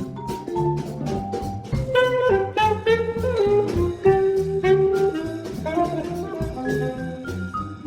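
A small jazz combo playing an up-tempo swing tune. A horn plays a running melody over bass and drums, with the cymbal keeping a steady beat.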